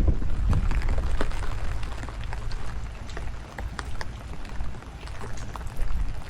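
Rain falling in strong wind, with scattered sharp ticks of raindrops and gusts buffeting the microphone as a low rumble, strongest in the first second.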